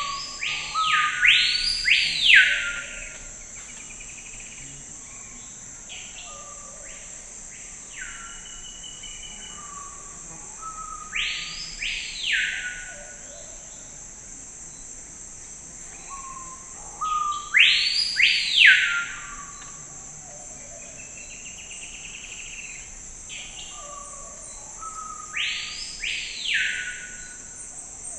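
A forest bird calling in loud, short phrases of two or three arching whistled notes that rise and fall, one phrase every six to eight seconds, over a steady high-pitched insect drone.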